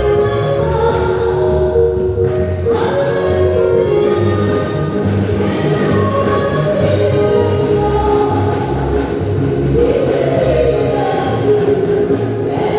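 A choir singing gospel music with instrumental backing, over a steady low beat.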